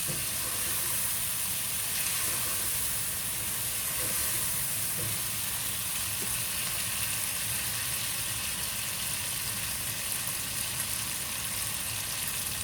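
Chicken pieces frying in oil with freshly added ground spices: a steady sizzle.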